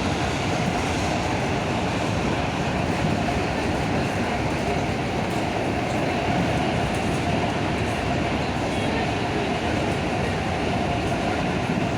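Electric commuter train running at speed: a steady, even rumble of wheels on rail and running gear.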